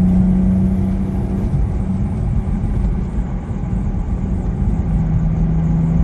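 BMW M4's twin-turbo inline-six engine running at a steady cruise over low road rumble. The engine drone holds one pitch, fades under the rumble about a second and a half in, and comes back near the end.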